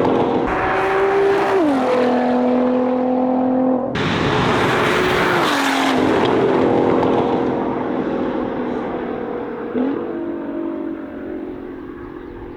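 Nissan GT-R R35's twin-turbo V6 through an aftermarket exhaust, driving past at speed, its engine note dropping in pitch several times. The sound cuts abruptly about four seconds in to another pass, then fades away near the end.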